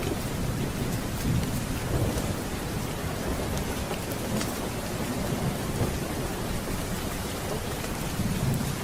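Steady rain with low thunder rumbling underneath, swelling a few times.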